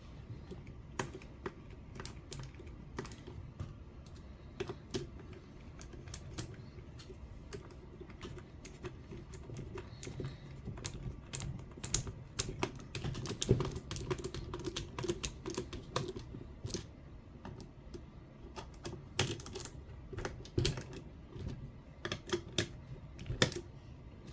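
Irregular light clicks and taps of small parts and hand tools as the turnbuckles of an RC car's steering linkage are refitted onto their ball joints.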